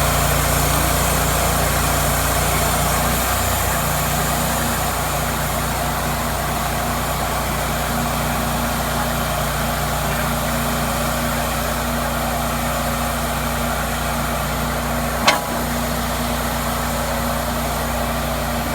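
Engine of a Cook's MP-32 band sawmill running steadily, with one sharp knock about fifteen seconds in.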